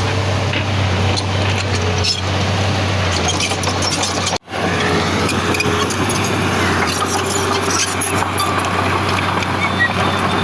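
Heavy diesel earthmoving machinery, a bulldozer and dump truck, running with a steady low engine drone and scattered short clanks. The sound cuts out for an instant about four and a half seconds in.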